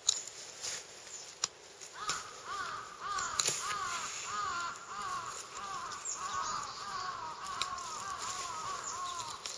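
A bird calling, a rapid run of short notes that rise and fall in pitch, about three a second, starting about two seconds in. A few sharp clicks come before it.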